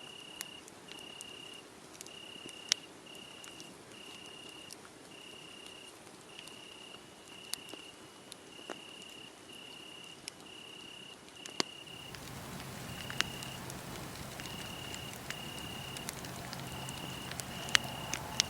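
Crickets chirping in a steady, even rhythm of short high chirps over a wood fire that crackles with occasional sharp pops. About two-thirds of the way through, the fire's sound grows fuller, with a low rumble under it.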